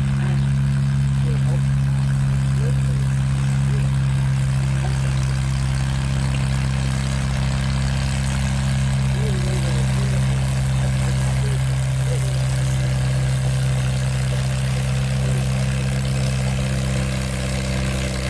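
Antique farm tractor engine running steadily at a constant speed, its low, even note holding without revving up or down.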